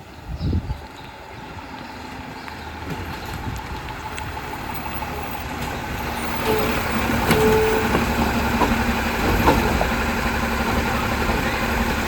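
Autocar WX64 garbage truck engine running and growing steadily louder, with a low thump about half a second in and two brief high tones around the middle.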